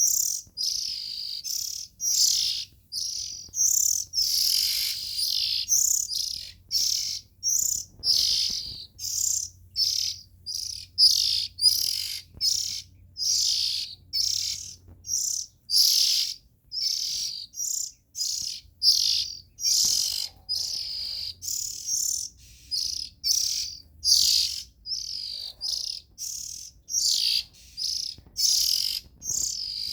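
Young Oriental magpie-robin calling: short, high chirping phrases repeated a little more than once a second, without a break.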